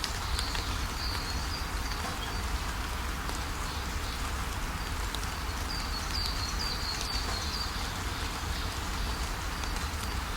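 Waterfall rushing steadily, with small birds giving short high chirps, most in a quick run about six to seven seconds in.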